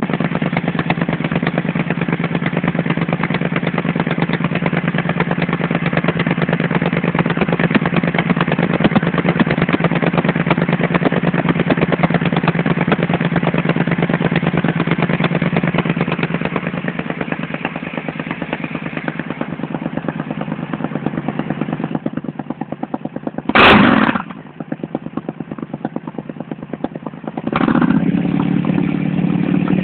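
Triumph Scrambler motorcycle with an Arrow aftermarket exhaust, idling with a steady, rapid exhaust beat. About three quarters of the way through there is one sharp, loud blip of the throttle, then a second, smaller rise near the end before it settles back to idle.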